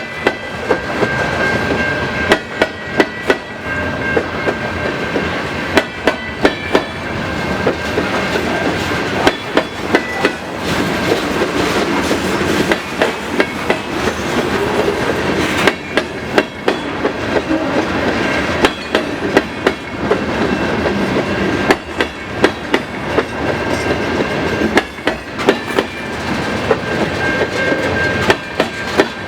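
Freight cars rolling slowly past, their wheels clacking over rail joints in tight clusters of about four every few seconds, over a steady rumble and a thin high-pitched whine.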